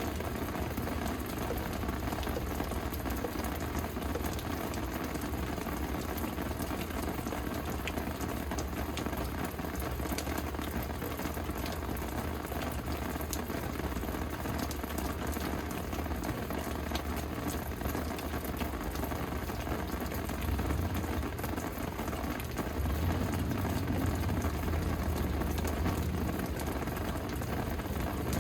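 Steady rain falling, an even hiss with fine drop ticks. Underneath runs a low rumble that swells a little about two-thirds of the way through.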